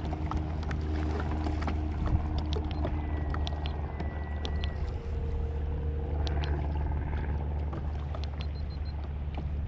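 Bixpy electric kayak motor running with a steady low hum, a few faint held tones above it, and small scattered clicks and knocks from the kayak.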